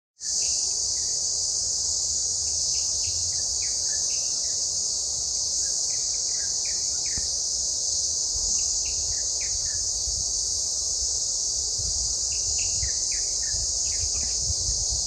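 Cicadas shrilling in a steady, unbroken chorus, with birds chirping in short falling notes over it and low wind rumble on the microphone.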